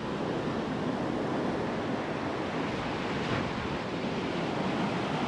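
Ocean surf breaking and washing up a sandy beach as a steady rush, with some wind on the microphone.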